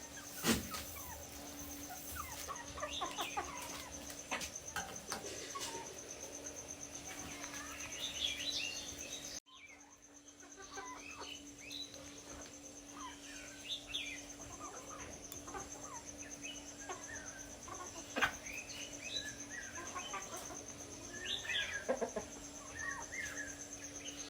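Birds calling outdoors: many short chirps and calls scattered throughout, with a few sharp clicks and a faint steady hum behind them.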